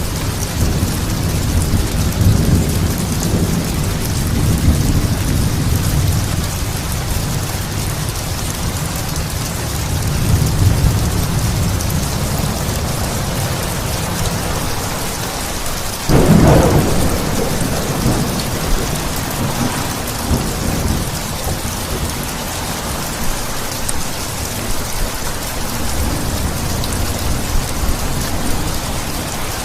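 Steady rain falling, with low rolling thunder. About sixteen seconds in, a sharp, loud thunderclap breaks and trails off into rumbling.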